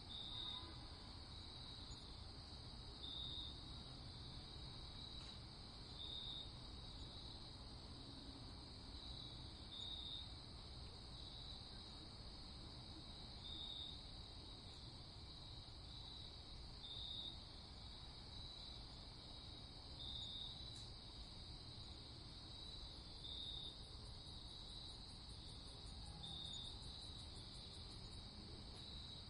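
Crickets chirping in a steady night chorus, with a brighter trill coming back about every three seconds over a faint low rumble.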